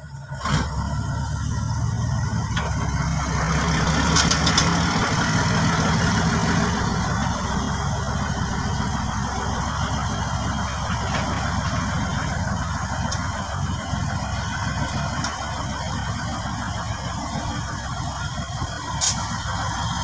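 Truck engine running steadily at an even speed, coming in suddenly about half a second in.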